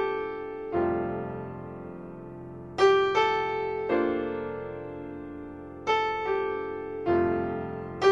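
Background music: slow piano notes and chords, each struck and left to ring out, a new one about every second or so.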